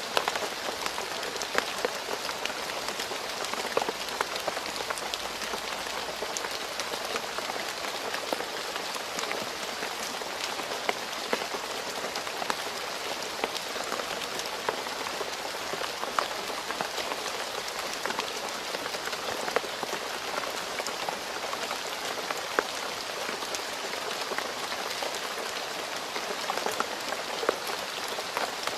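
Steady rain falling on a road surface, a dense even patter with many individual drop splashes scattered throughout.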